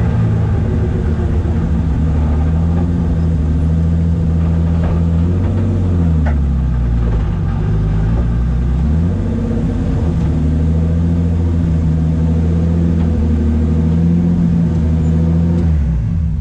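Turbocharged BMW S50 straight-six in an E36 drift car running under way, heard inside the stripped, caged cabin. The engine note drops about six seconds in and climbs again about three seconds later, then cuts off near the end as the engine is shut down.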